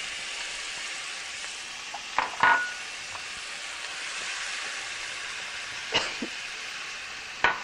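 Diced onions and bell peppers sizzling steadily as they fry in very hot olive oil. A few knocks of a spatula against a glass bowl as the vegetables are scraped in: a pair about two seconds in, one at six seconds and one near the end, some with a brief ring.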